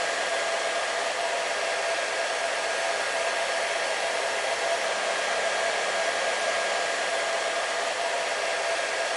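Hair dryer blowing steadily: an even rush of air with a constant motor whine, no change in speed.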